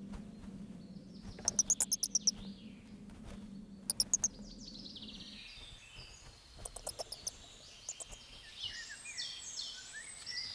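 Bats in a tree-hole roost squeaking in quick, high-pitched chirping trains, twice in the first half and again briefly around the middle, over a low steady hum that stops about halfway through. Bird song with warbling trills follows near the end.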